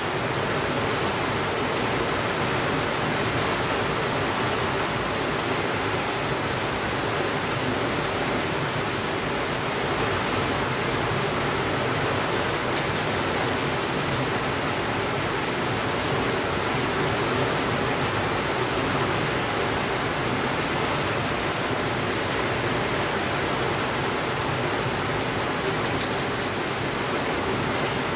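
Steady rainfall, an even hiss that holds at one level throughout, with no thunder.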